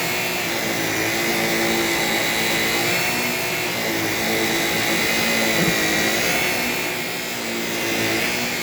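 Shark vacuum cleaner running steadily, a high motor whine over a lower hum, the pitch wavering slightly as it is worked.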